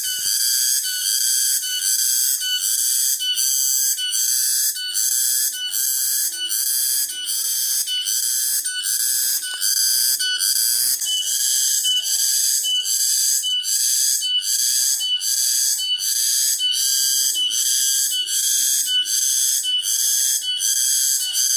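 Cicadas calling in a loud, high, pulsing drone that beats evenly at about three pulses every two seconds.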